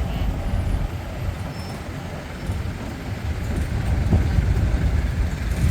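Heavy trucks driving past in a slow parade, a dense low engine rumble that swells a little about four seconds in.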